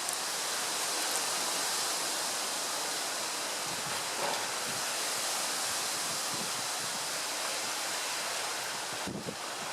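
Gusty wind rushing through trees: a steady hiss of tossing leaves and branches, with a few brief low rumbles.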